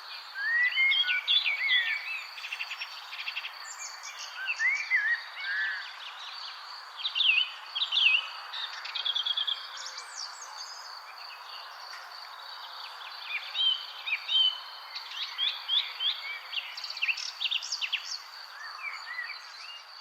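Several birds chirping and singing in short bursts, over a steady high-pitched insect trill and a constant hiss of outdoor background noise.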